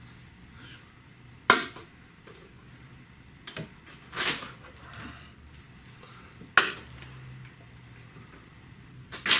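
Metal hand tools clinking: three sharp clinks spread across several seconds, with brief rustling and rattling in between, as sockets are handled and tried.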